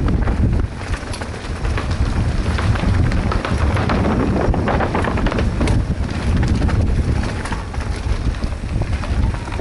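Wind buffeting the camera microphone during a fast mountain-bike descent, with a steady low rumble and constant rattling and clicking of tyres and bike over a rough dirt trail.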